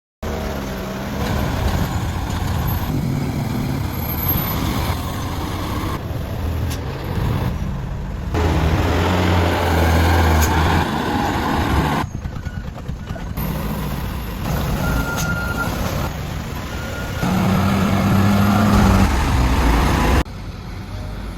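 Diesel engine of an overloaded Mitsubishi Canter truck running under a heavy load of building sand. The engine note and background shift abruptly several times, as separate clips follow one another.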